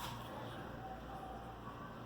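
Quiet room tone with a faint steady low hum; no distinct sound.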